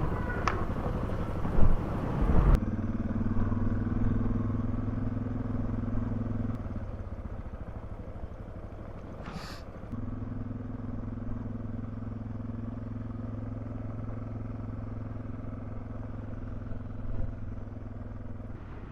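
Suzuki DR650's single-cylinder engine running at a steady pitch while the bike is ridden. The first couple of seconds are noisier and rougher. The engine note drops back for a few seconds in the middle, then picks up steady again.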